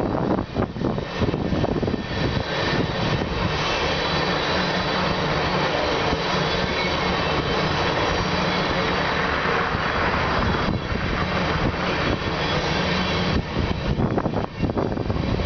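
Freight train of tank cars rolling past close by: a steady rumble of steel wheels on the rails, with sharper clicks near the start and again near the end.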